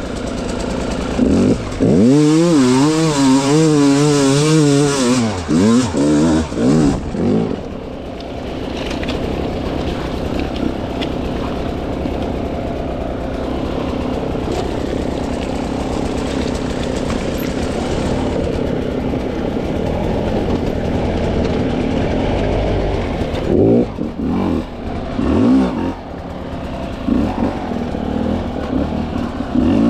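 300cc two-stroke dirt bike engine being ridden on the throttle: a few seconds of hard, wavering revs, then a long stretch of steady low-rev running, then more short bursts of revving near the end.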